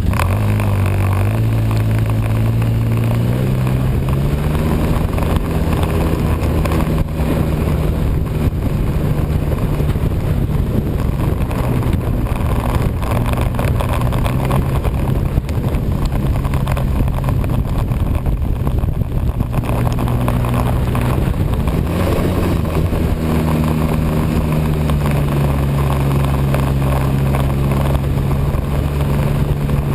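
A vehicle engine running under way, rising in pitch as it speeds up over the first few seconds, then steady. It eases off about twenty seconds in and picks up again shortly after, over constant wind and running noise.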